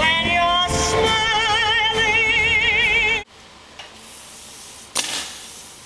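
A singing voice rises through a few notes into a high held note with wide vibrato, then cuts off abruptly a little past three seconds in. Faint hiss follows, with a sharp click about five seconds in.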